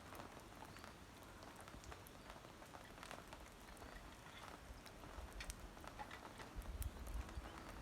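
Faint, irregular patter of scattered ticks and taps over a light hiss, with a low rumble that sets in about five seconds in and grows stronger near the end.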